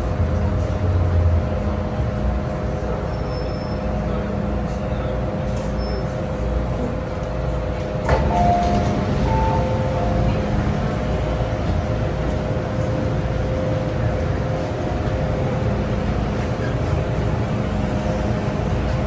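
MTR M-Train running on the Tsuen Wan Line, heard from aboard: a steady rumble with a constant hum. A sharp click about eight seconds in, followed briefly by higher tones.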